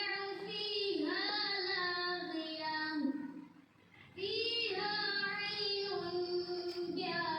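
A child singing a melody, holding and gliding between notes in two long phrases with a short break about three and a half seconds in.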